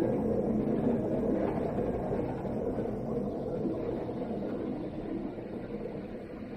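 Airbus A330-200 cabin noise heard from a passenger seat: a steady rumble of engines and rolling wheels that fades gradually as the airliner slows after landing.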